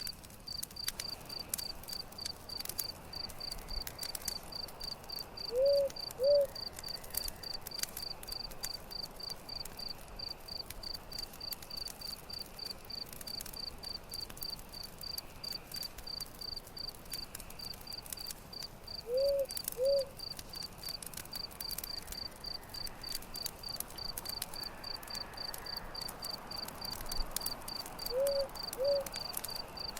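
Campfire crackling with scattered sharp pops, under crickets chirping in a fast, steady pulse. Three times, about every thirteen seconds, a low two-note call stands out as the loudest sound.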